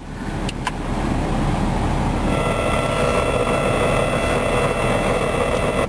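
Steady rushing of a car's air-conditioning blower inside the cabin. About two seconds in, a steady whine of several tones joins it as the car radio is switched on.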